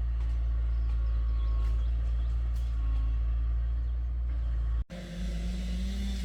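A vehicle engine running steadily with a low rumble. It drops out abruptly for a moment about five seconds in, then resumes with a steadier hum.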